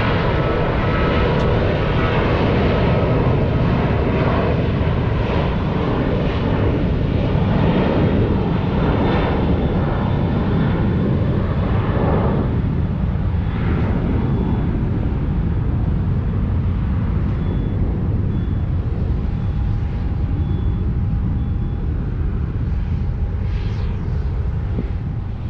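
Jet airliner engine noise: a deep rumble with a whine of several steady tones that fades over the first dozen seconds as the jet moves away, the rumble slowly easing after.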